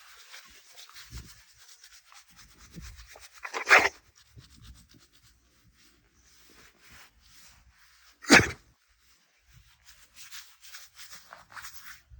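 A dog sneezing twice, two short sharp bursts about four and a half seconds apart, with faint scratchy noise between them.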